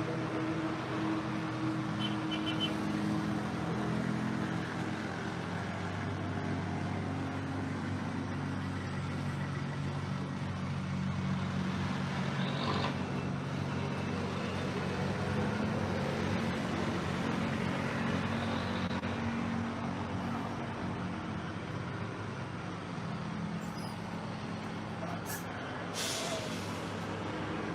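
Motor vehicle engines running, their pitch shifting slowly, as in passing road traffic, with a couple of brief sharp clicks about halfway through and near the end.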